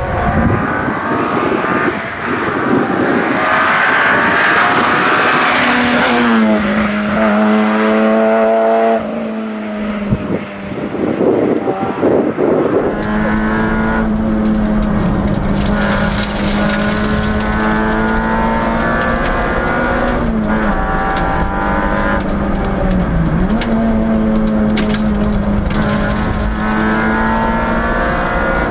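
Peugeot 106 S16 rally car's 1.6-litre sixteen-valve four-cylinder engine running hard at high revs, rising at first as the car comes closer. From about halfway through it is heard from inside the cabin with a heavy rumble. The engine note holds steady and dips briefly twice near the end as the driver lifts or changes gear.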